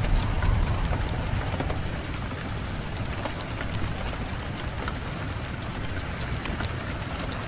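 Wood fire crackling in a fireplace, many small sharp pops scattered over a steady low rumble of wind.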